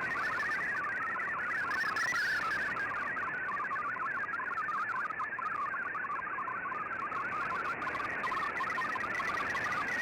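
MFSK digital data signal received over shortwave radio: a steady warble of short tones hopping rapidly between many pitches, over background hiss.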